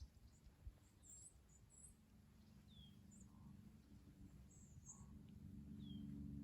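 Faint birds chirping in short, scattered calls over a low steady hum that grows louder near the end.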